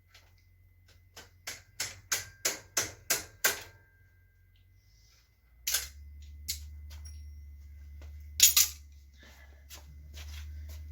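Sharp metallic clicks from a bicycle chain and drivetrain being worked on while a new chain goes on: a run of about eight evenly spaced clicks, some three a second and growing louder, then a few single and double clicks over a low hum.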